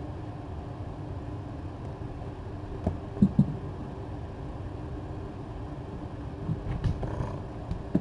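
Air conditioner running with a steady hum. There are two sharp knocks a little over three seconds in and a few more knocks and rustles near the end.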